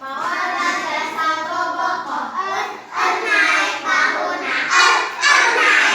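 A group of young children singing a Sundanese play chant together, many voices overlapping.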